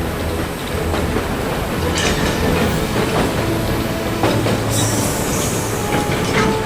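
Train running along the track, wheels clattering, with a short burst of hiss about five seconds in.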